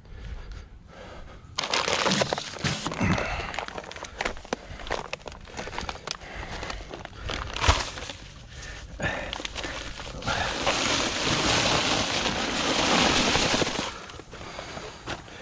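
Digging in soil with a shovel: irregular crunching and scraping of dirt and stones with small knocks, then a steadier stretch of loose dirt sliding for about four seconds from about ten seconds in.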